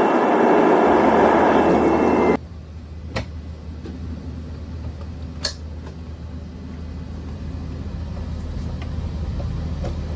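Loud, even rushing vehicle noise that cuts off abruptly a little over two seconds in. It gives way to a quieter low steady hum with two sharp clicks.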